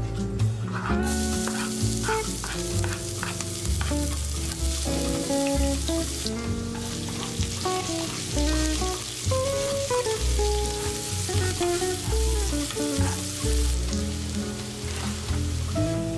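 Aromatics frying in hot oil in a nonstick pan: a loud, steady sizzle that starts about a second in, dips briefly midway and stops a couple of seconds before the end. Background guitar music plays underneath.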